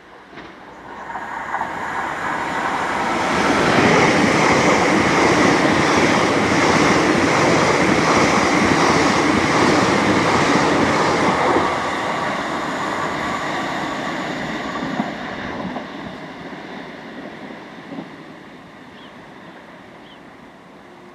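Greater Anglia electric multiple-unit train running past on the line, a loud rushing of wheels and traction noise. It builds over the first few seconds, holds for several seconds, then fades away over the second half.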